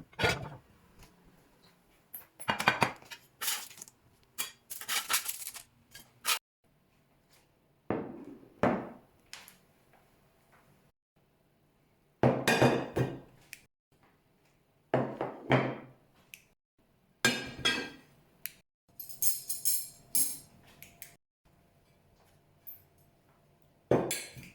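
Dishes and cutlery clinking and knocking as they are handled and set down, in about a dozen separate short bouts with pauses between, some with a scraping rustle.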